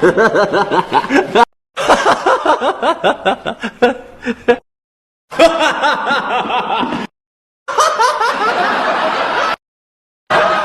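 Human laughter sound effects: a series of separate laughing clips, each a few seconds of rapid rhythmic laughing, broken by short gaps of dead silence.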